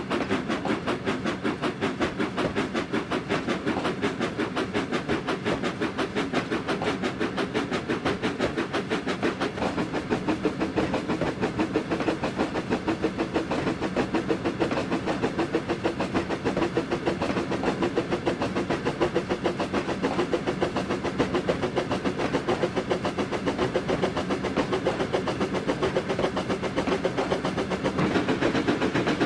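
A steam train hauled by Flying Scotsman, an LNER A3 Pacific locomotive, running with a fast, even rhythmic beat that gets a little louder near the end.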